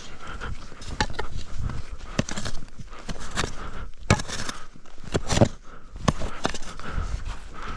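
Irregular crunching and scraping in deep snow: footsteps and hands digging at a buried traction board.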